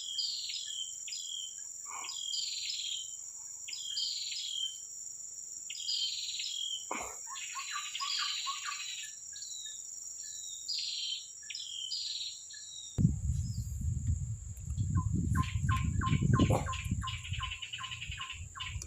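Birds calling with short chirps about once a second over a steady high-pitched insect drone. About two-thirds of the way through, the drone stops and a low rumbling noise sets in, with a quick series of ticks.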